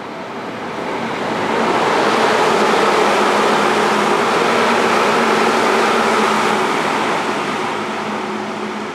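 Electric train running noise, a broad rumbling hiss with faint steady tones that swells about a second in, holds for several seconds and fades toward the end.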